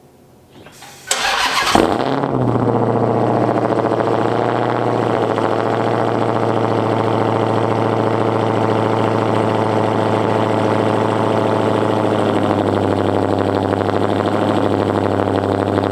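Dodge Charger Hellcat's supercharged 6.2-litre HEMI V8 cranking and catching about a second in with a loud burst, then idling steadily. It is running with the mufflers removed, pretty loud.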